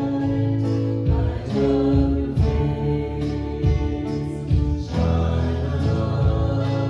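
Worship band music with singing and guitar over a steady beat.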